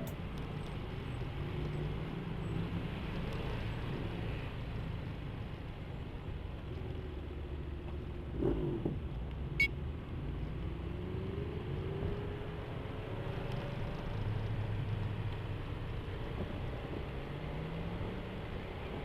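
Ride noise from a BMW C 400 GT maxi-scooter moving through city traffic: a steady low engine rumble, its pitch rising several times as it accelerates. There is a brief sharp click about halfway through.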